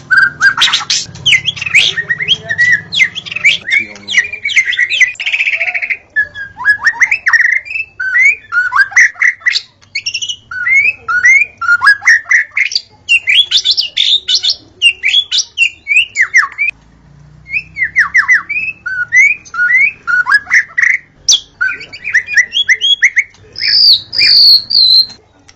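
White-rumped shama singing: a fast, varied run of chirps, swept whistles and rapid rattling notes, with a short pause a little past the middle.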